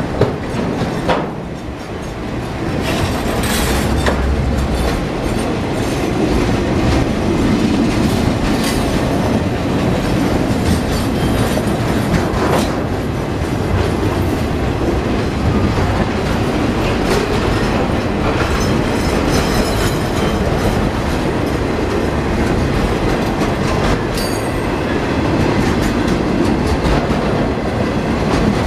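Intermodal container cars of a freight train rolling past at close range. Steel wheels clack over the rail joints in a steady loud rumble, with a few sharp clanks.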